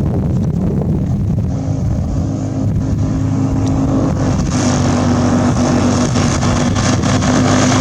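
Rotax 503 two-cylinder two-stroke engine of a Fox V2 ultralight aircraft running steadily at power, growing brighter and a little louder about four and a half seconds in.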